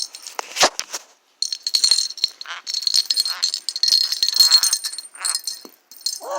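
A pineapple conure shaking her toy, so that a small metal bell on it jingles and rattles in irregular shakes, with a short pause about a second in.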